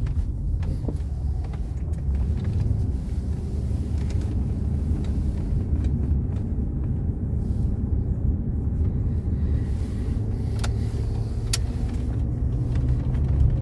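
Mercedes-Benz W126 500 SE's 5.0-litre V8 and road noise heard from inside the car while driving, a steady low rumble. Two short clicks about a second apart come late on.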